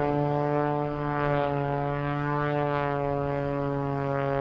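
Engine and propeller of a single-engine aerobatic airplane droning steadily in flight, the upper part of the tone wavering slightly as it manoeuvres.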